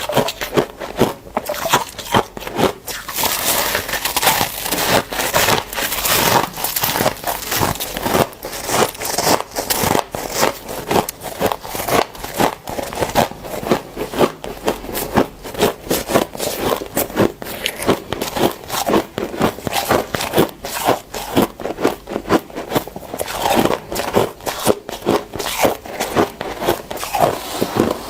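Dry, powdery deep-freezer frost crunching and squeaking as it is handled and bitten, in rapid, irregular crunches.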